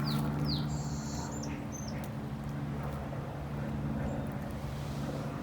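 A bird chirps a few short falling calls in the first two seconds over a steady low mechanical hum.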